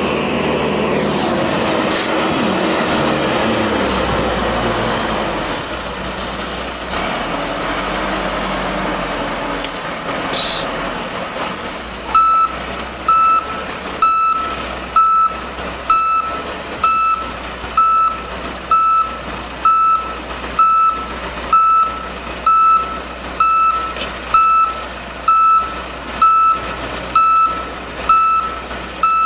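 Front loader's engine working, its pitch rising and falling early on as it is revved. Then, a little under halfway through, its backup alarm starts beeping steadily, about one beep a second, as it reverses.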